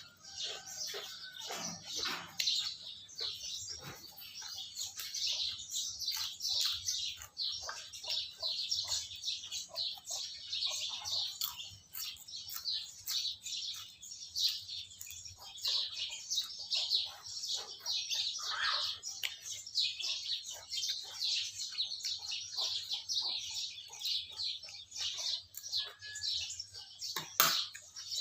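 Small birds chirping busily and continuously, with a single sharp knock near the end.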